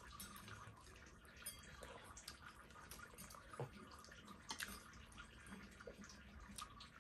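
Faint eating sounds of people eating dumplings and soup: small, scattered clicks and mouth noises.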